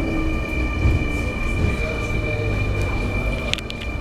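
Cabin of a Sotetsu 9000 series electric train standing at the platform with its doors open: a steady hum with a high steady tone running through it. Three sharp clicks come near the end.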